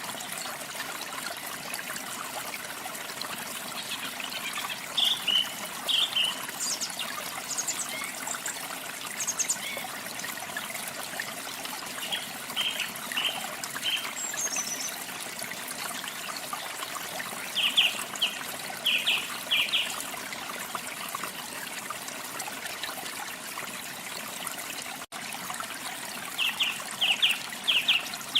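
Steady running water of a waterfall, with small birds singing over it in short groups of quick chirps every few seconds, some notes higher and one falling note. A split-second dropout in the sound comes near the end.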